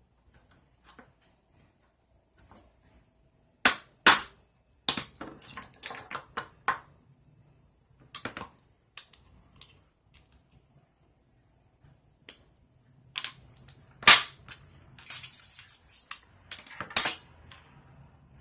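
Sharp clicks, snaps and short scrapes of small hand tools and metal parts being worked on a metal sunglasses frame, in irregular clusters with the loudest snaps about four seconds in and again near fourteen and seventeen seconds.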